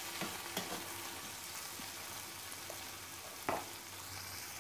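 Potato and tomato pieces sizzling in hot oil in an aluminium kadhai, with a steady hiss. A metal spoon stirs at first, clicking a few times against the pan, and there is one sharp knock about three and a half seconds in.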